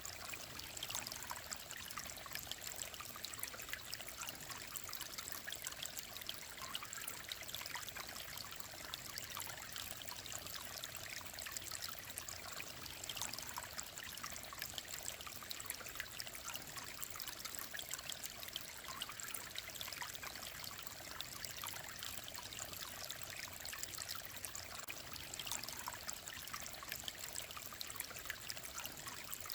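Clear mountain stream running steadily: an even rush of water dotted with many small trickling splashes.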